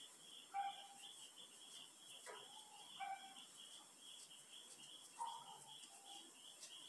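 Faint birds chirping: a few short calls, one gliding downward, over a steady high-pitched pulsing trill.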